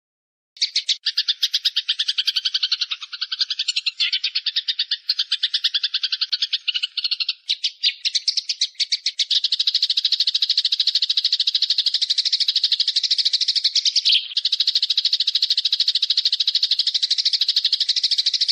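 A bird-song training recording: a bird's rapid, high-pitched trill of fast repeated notes starts suddenly about half a second in and runs without pause. It becomes steadier and denser after about nine seconds, with a brief dip near fourteen seconds.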